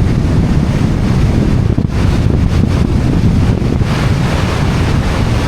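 Wind buffeting a roof-mounted camera's microphone on a moving car, a loud steady low rumble, with the road and tyre noise of the BMW E91 320d mixed in beneath.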